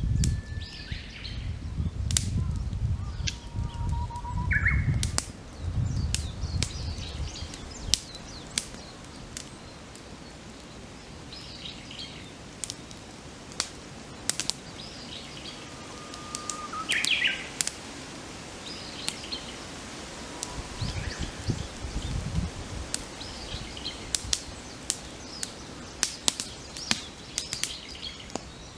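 Wood campfire crackling, with sharp pops scattered throughout, while songbirds sing nearby: several phrases that each start on a long held whistle and then jump up into a quick flourish. A low rumble is heard in the first five seconds and again briefly around 21 seconds.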